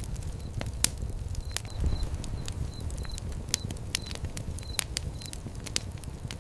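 Wood fire crackling, with frequent sharp pops and snaps over a low, steady rumble of flames. Short high chirps recur throughout.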